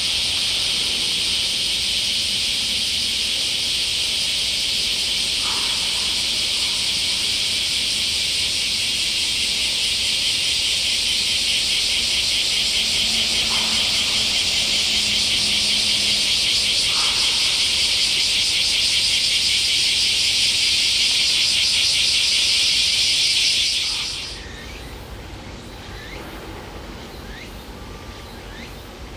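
Cicadas buzzing loudly and steadily with a fast pulsing rasp, cutting off suddenly about five seconds before the end.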